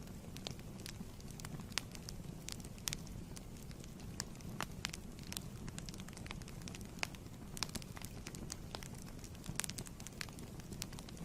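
Fireplace fire burning: a steady low rumble of flames with irregular sharp crackles and pops from the wood, several a second.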